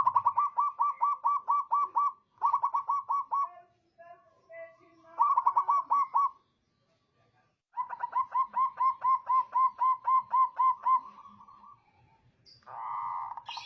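Zebra dove (perkutut) cooing: a male's song of rapid, evenly repeated notes, about five a second, given in four bursts with short pauses between them.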